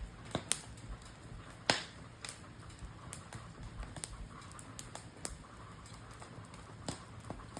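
Wood campfire crackling, with irregular sharp pops and snaps, the loudest pop about two seconds in.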